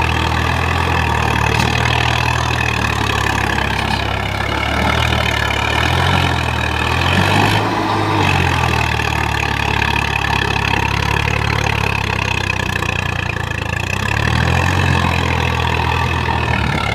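Swaraj 855 tractor's three-cylinder diesel engine running steadily. Its pitch rises and falls briefly a little before the middle and again near the end.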